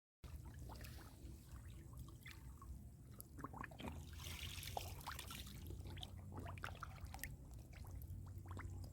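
Shallow muddy water sloshing and trickling, with many small wet clicks and splashes and a brief burst of splashing about four seconds in.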